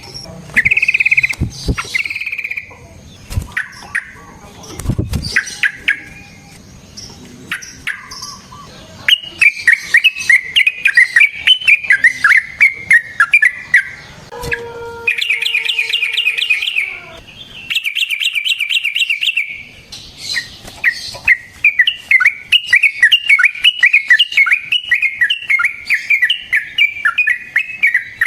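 Yellow-vented bulbul (trucukan) singing: bubbly chattering phrases broken by fast rattling trills a little past the middle, then a long run of quick warbling notes to the end.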